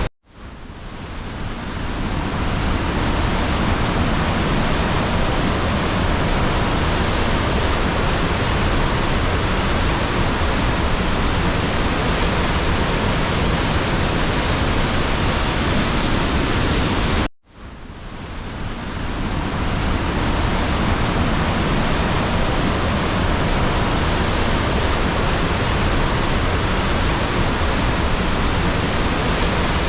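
The Rhine Falls: a waterfall's steady, loud rush of water. The sound cuts out briefly at the very start and again about 17 seconds in, fading back up over a couple of seconds each time.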